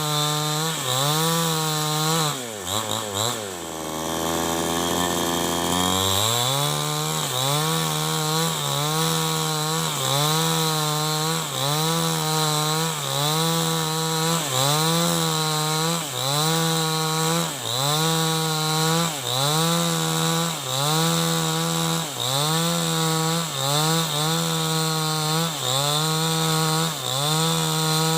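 New West 788 two-stroke chainsaw running at full throttle, ripping lengthwise through a log; its pitch sags and recovers about every second and a bit as the chain bites under load. A few seconds in, it drops briefly to idle, then revs back up and carries on cutting.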